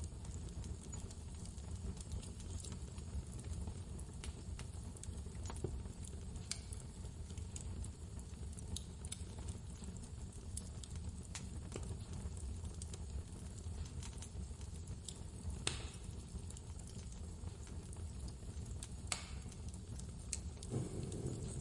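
Wood fire crackling, with irregular sharp pops and snaps, over a steady low rumble of blizzard wind.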